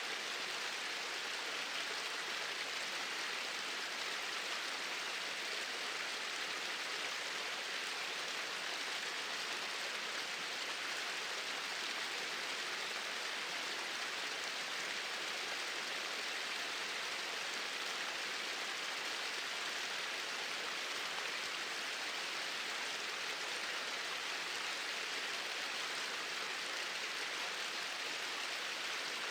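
Small waterfall splashing, a steady hiss of falling water with no change.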